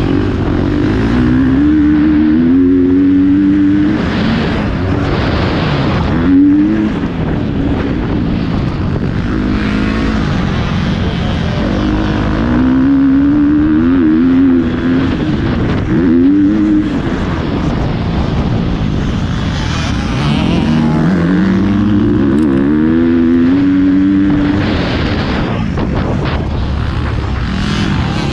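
Motocross bike engine revving hard and shifting, its pitch climbing and dropping back again and again as it accelerates out of corners, over a steady rush of wind.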